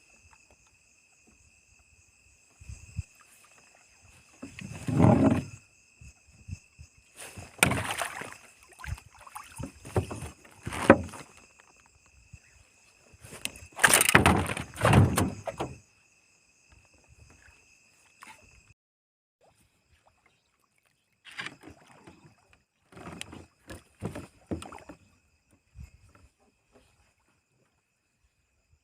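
Water splashing and sloshing in several loud bursts, with a fainter run of splashes later on. A steady high-pitched ringing runs under the first two thirds and cuts off suddenly.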